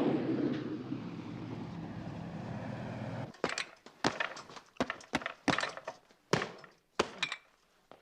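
A dense low rumble cuts off suddenly about three seconds in. A punching bag then takes a quick, irregular run of about a dozen blows from bare or gloved fists.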